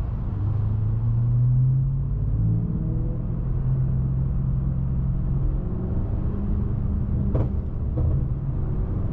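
BMW M550i's twin-turbo V8 and road noise heard from inside the cabin while driving in traffic, a steady low drone that rises a little about a second in and then holds. Two short clicks come near the end.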